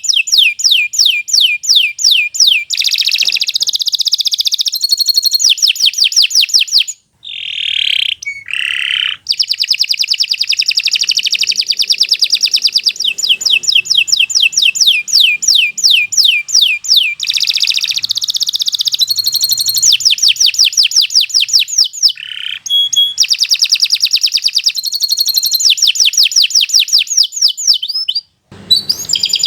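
Domestic canary singing long, continuous trills of fast repeated down-slurred notes, several a second, in the full non-stop 'gacor' song used as a tutor recording for other canaries. The song is broken by short pauses with lower swooping notes about seven and nine seconds in and again near the end.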